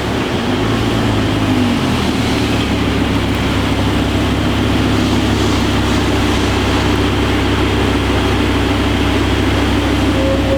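Lamborghini engine running at a steady speed as a low, even drone, with a brief dip in pitch about one and a half seconds in.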